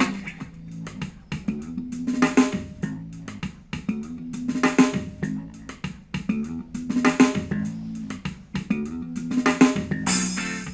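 Music with guitar, bass and drums played through a Proton Tempo wireless Bluetooth speaker, a phrase repeating about every two and a half seconds.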